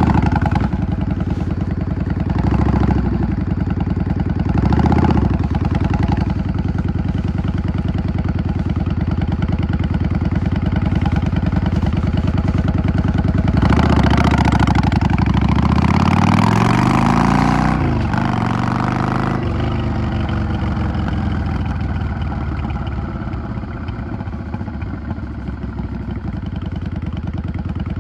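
Yamaha XVS 650 bobber's V-twin engine running on the road, heard from the rider's seat. About halfway through, the revs climb steadily for several seconds as the bike accelerates, then drop back to a steady, lower engine note.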